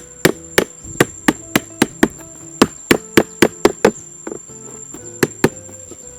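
Repeated sharp strikes on wood, about three to four a second, as in chopping or cutting sticks to build a trap. They stop about four seconds in, and two more strikes follow about a second later. Background music plays underneath.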